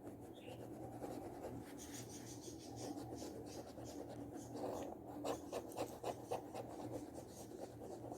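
Writing by hand: a run of short scratchy strokes, busiest about five to six seconds in, over a low steady hum.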